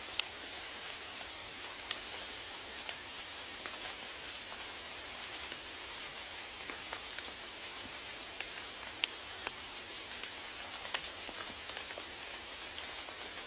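Steady rain: an even hiss with scattered, distinct drop ticks, a few louder than the rest.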